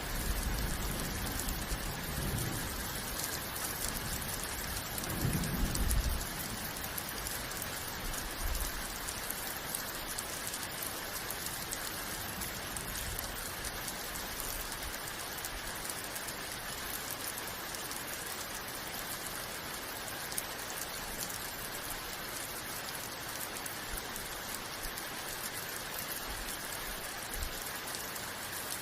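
Steady rain falling, an even hiss throughout, with low rumbles of thunder swelling twice in the first six seconds or so.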